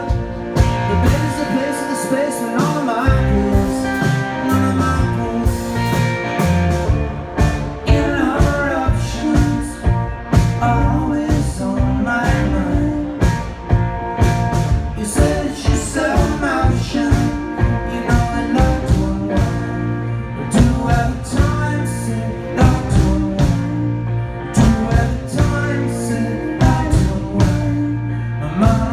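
Live rock band playing with electric guitar, bass and drums on a steady beat, a lead line wavering over sustained chords.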